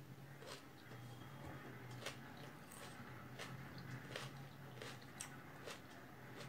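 Faint eating sounds: a person chewing a mouthful of rice and dal, with scattered soft clicks and smacks as fingers mix food on the plate. A low steady hum sits underneath.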